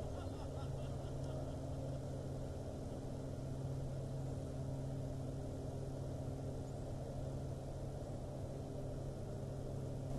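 Steady low engine hum with a few evenly spaced overtones, holding an even level throughout; faint short high ticks sound in the first second or so.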